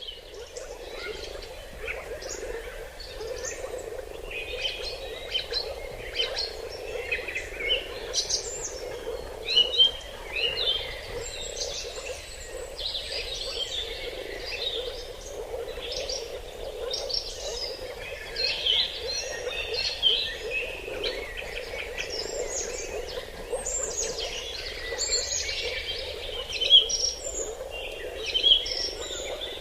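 Many birds chirping and calling together in a forest, short overlapping chirps and trills, over a steady low chorus that runs underneath.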